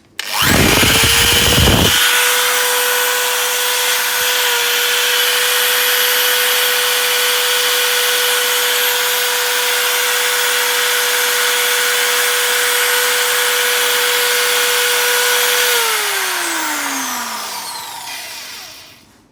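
Interskol corded electric drill running free with no load: the motor spins up with a short low rumble, holds a steady high whine for about fifteen seconds, then is switched off and winds down with falling pitch.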